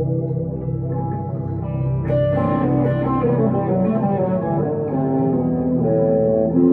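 Electric guitar, a 1962 Gibson Les Paul Custom through a Two Rock Emerald Pro amplifier, playing held, sustaining notes with delay and reverb; a new note is picked about two seconds in and the melody moves on from there.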